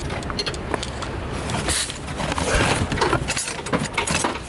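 Wrench clinking and clicking against a bolt and engine parts in irregular sharp taps, over a steady low rumble.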